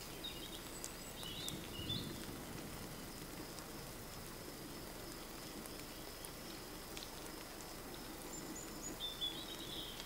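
Small birds giving short chirping calls in a forest, a few near the start and a burst near the end, with a brief higher note just before it. A faint steady high-pitched tone and soft background noise run underneath.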